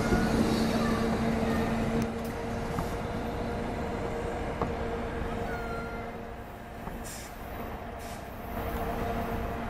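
NJ Transit commuter train rolling past and drawing away, its wheels rumbling on the rails with a steady hum over the noise. The sound drops about two seconds in as the trailing cab car clears, then fades as the train recedes.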